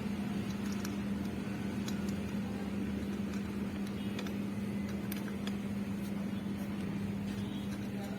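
A steady low machine hum at an even level, with scattered light clicks like tools or parts being handled.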